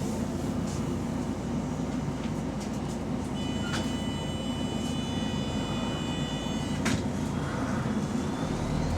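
Volvo B9TL bus's diesel engine running steadily, heard from inside the bus, which has an exhaust leak. Sharp clicks come about three and a half seconds in and again near seven seconds, with a steady high-pitched tone ringing between them.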